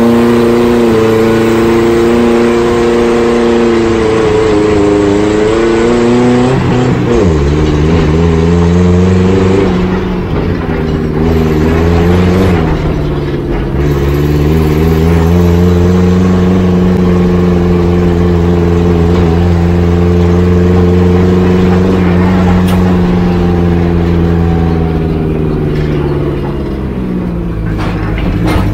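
Turbocharged Toyota 1NZ-FE four-cylinder engine in a Lada 2105, heard from inside the cabin while the car is driven under load. The revs fall sharply about seven seconds in and dip again a few seconds later, then hold steady for a long stretch before dropping near the end.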